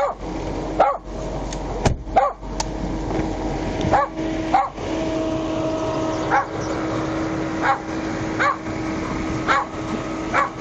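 A dog barking repeatedly, about a dozen short barks with irregular gaps, over a steady low drone.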